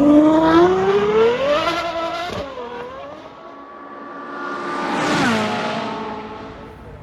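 Ferrari 812 GTS's V12 accelerating hard, its pitch climbing for about two seconds before breaking off. The car then passes close by about five seconds in, the engine note falling as it goes away.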